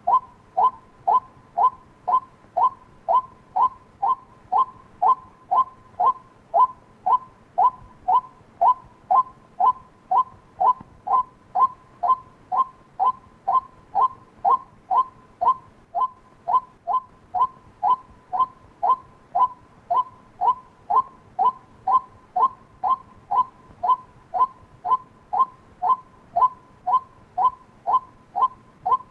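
White-breasted waterhen calling: a short note repeated steadily about twice a second, each note dropping slightly in pitch, the monotonous call used to lure waterhens.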